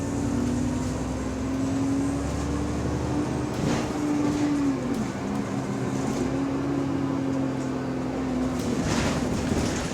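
London double-decker bus heard from the passenger cabin while driving, with a steady whine from the rear differential that holds its pitch, drops about halfway through as the bus slows, then settles again. Interior rattles come and go over the road rumble; the whine is the subtle, odd differential noise this bus makes.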